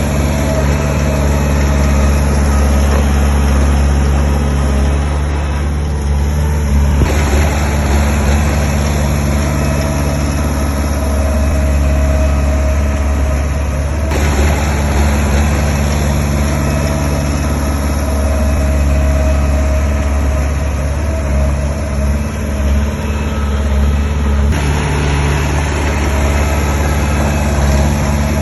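Heavy diesel engine of construction machinery running steadily, a deep low hum, with abrupt shifts in its sound about 7, 14 and 24 seconds in.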